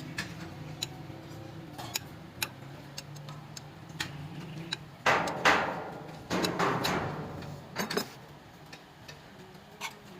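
Work on a truck diesel engine: scattered sharp metal clicks and clinks of hand tools and parts, with louder rattling clatters about halfway through, over a steady low hum.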